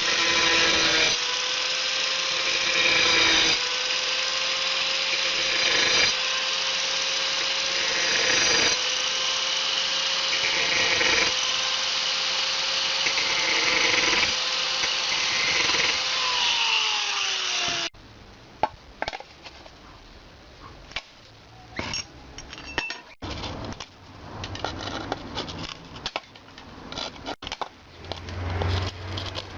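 Angle grinder cutting ceramic tile: a loud, steady whine with gritty cutting noise that dips briefly every couple of seconds. About 16 seconds in, its pitch falls as it winds down and it stops. After that come quieter clicks, knocks and scraping.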